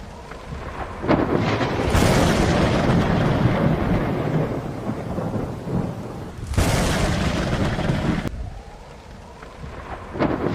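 Heavy rain pouring down, with a deep low rumble under it. The sound swells in suddenly several times and eases off briefly a little before the end.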